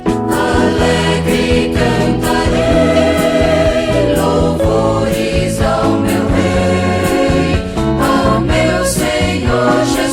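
Gospel song: a vocal group singing in harmony over band accompaniment with a steady beat.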